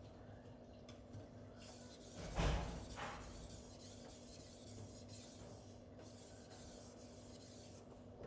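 Steel cleaver blade being stroked back and forth across a silicon carbide whetstone, a faint steady scraping. A louder thump comes about two and a half seconds in.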